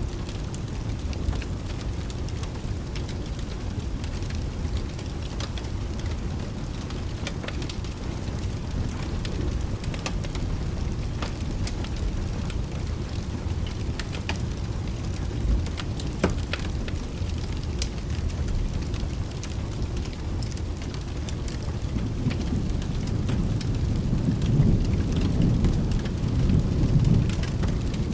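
Steady rain with scattered sharp ticks, and a low thunder rumble that swells over the last several seconds.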